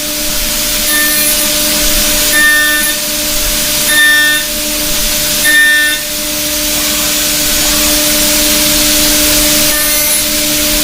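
CNC milling machine with a ceramic end mill cutting heat-resistant superalloy. It is a steady hiss over a constant spindle hum, and short ringing tones recur about every second and a half in the first half and again near the end.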